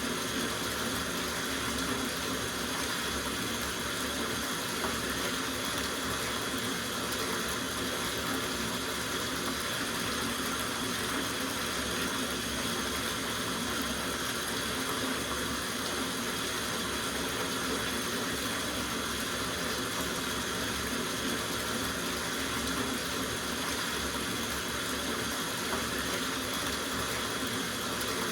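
Water running steadily from a tap into a soaking bathtub as it fills, a constant rushing splash with no change.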